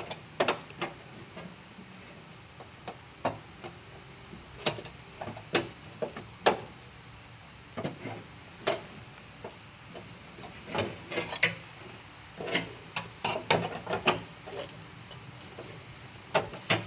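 Sheet-steel repair panel being handled and tried in a car's boot floor: irregular sharp clanks and taps of metal on metal, with a few brief scrapes.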